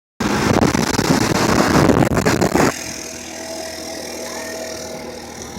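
Wind buffeting the microphone loudly for about two and a half seconds, then cutting off abruptly to leave a steady, quieter hum of a motor vehicle on the move.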